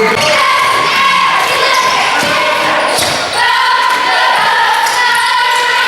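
Game sounds on a basketball court: a basketball bouncing on the floor, with voices and sustained high squeaks over it.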